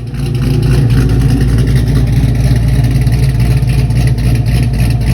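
LS1 V8 with a BTR Truck Norris camshaft, idling steadily and loudly through a Spintech 6000 exhaust.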